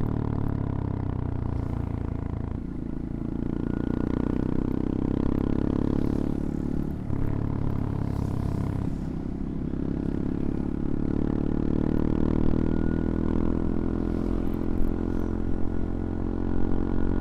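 CFMoto Papio XO-1 minibike's small single-cylinder engine running under way, its note rising and falling with the throttle and dipping briefly a few times (around two and a half, seven and nine seconds in). A few sharp clicks and rattles near the end.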